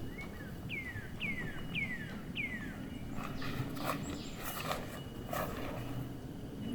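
A bird calls four times in quick succession, each a short falling whistle, over a steady outdoor hiss and a faint low hum. In the second half come a few sharp knocks and rustles.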